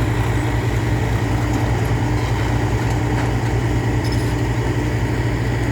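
Diesel engine of a heavy earthmoving machine such as an excavator or bulldozer, running steadily with an even low hum.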